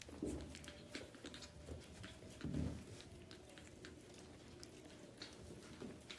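Biewer terrier puppies moving about and mouthing, with scattered small clicks and patter. A soft, lower sound comes about two and a half seconds in.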